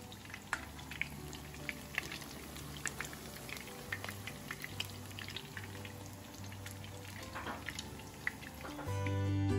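Beef chapli kabab patties sizzling in shallow oil in a frying pan, with scattered crackles and pops. Quiet background music plays underneath and swells near the end.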